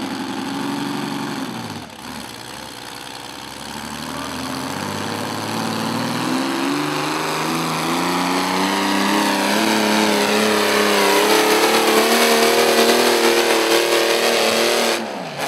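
Engine of a pulling tractor or truck straining under load during a pull. The revs dip briefly about two seconds in, then the pitch climbs steadily and grows louder for about ten seconds before falling away sharply near the end as the run ends.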